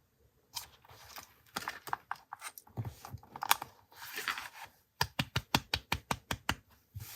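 Paper and journal handling: scattered rustling and soft knocks, then about a dozen sharp taps in quick succession, roughly seven a second, a little after halfway, followed by more rustling.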